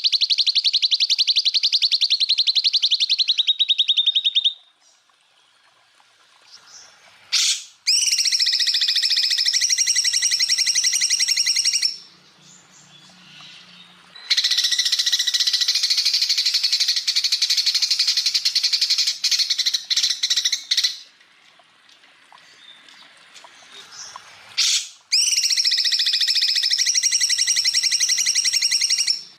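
Greater green leafbird (cucak ijo) singing its rapid-fire 'tembakan' song: four long runs of very fast repeated high notes, each lasting several seconds, with short pauses between. The first run drops a little in pitch at its end.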